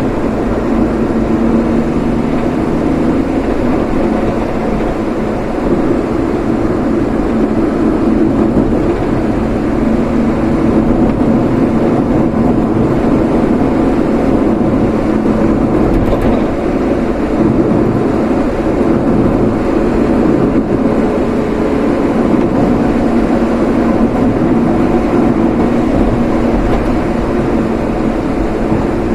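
Steady running noise of a vehicle being driven, a continuous low hum of engine and road noise.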